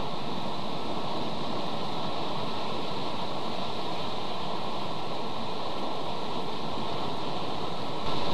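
Strong wind buffeting the nest camera's microphone: a steady, unbroken rushing noise that gets a little louder near the end.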